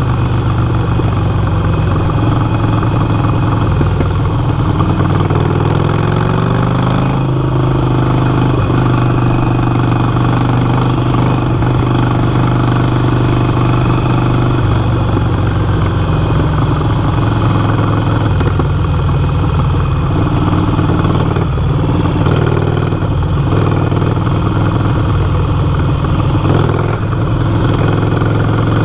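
Harley-Davidson Iron 883's air-cooled V-twin engine running, rising in pitch once a few seconds in and then holding a steady note.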